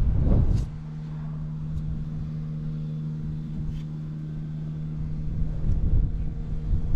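Honda Jade 250's four-cylinder engine idling steadily at an even pitch, which the seller describes as running perfectly with no abnormal noises. Wind buffets the microphone loudly for the first half-second and again from about five and a half seconds in.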